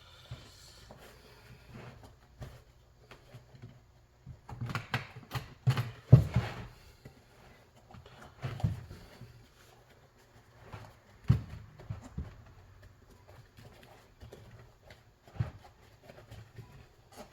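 Irregular knocks, taps and rubbing as an inner tube and tyre are worked onto a small motorcycle wheel rim by hand, with the loudest knocks about six and eleven seconds in.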